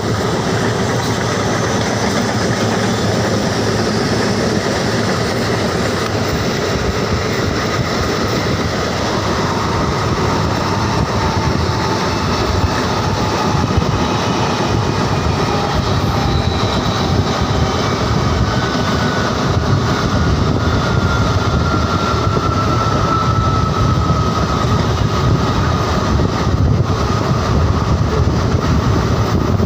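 Train running along the track: a steady loud rumble of wheels on rails, with a faint thin squeal in the second half that drifts slightly lower in pitch.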